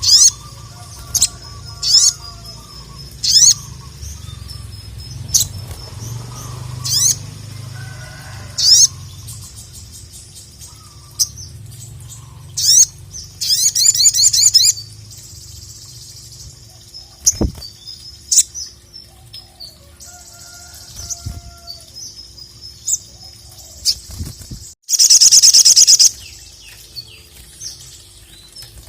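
Sogon (sogok ontong) songbird calling hard: a series of sharp, high single notes a second or two apart, broken by a fast rattling trill near the middle and a louder, longer trill about two-thirds of the way through.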